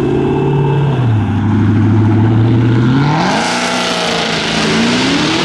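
Car engine running at low revs, then revving up hard about three seconds in with a loud rushing hiss before easing off near the end.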